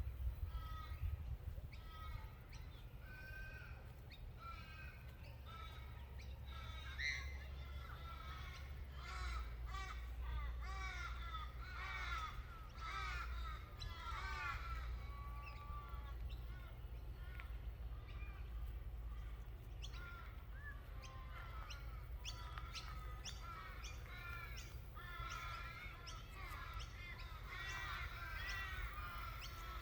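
Birds calling: many short, harsh, repeated calls overlapping one another, thickest in the middle and again near the end, over a steady low rumble.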